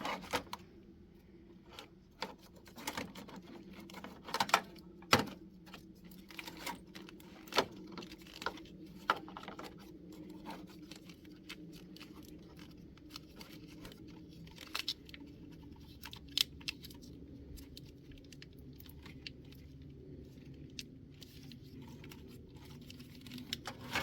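Irregular clicks and light taps of plastic wire-harness clips and a starter wire being handled, a few sharper clicks among them, over a faint steady low hum.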